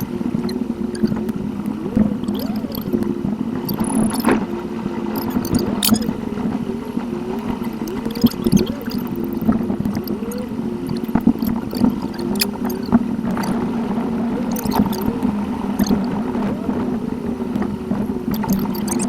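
Car cabin sound from a dashcam while driving, played at eight times speed. The engine and road noise become a steady hum with a higher tone wavering up and down above it, and short clicks are scattered through.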